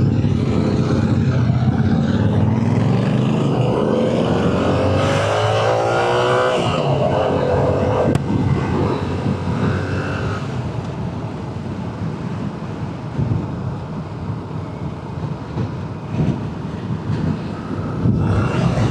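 Motorcycle engine running while riding, with wind noise over the microphone. The revs climb for several seconds, drop off suddenly a little before halfway as at a gear change, then hold steadier and a little quieter.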